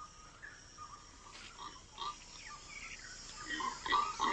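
Rainforest ambience: a steady high insect hum with scattered short chirping and whistling animal calls, growing louder and busier near the end.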